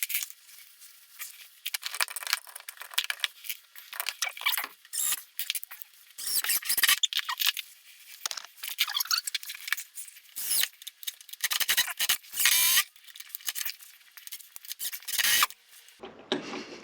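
Irregular scraping, rattling and short squeaks of metal storm-door closer hardware being worked by hand, with one longer wavering squeak a little past the middle.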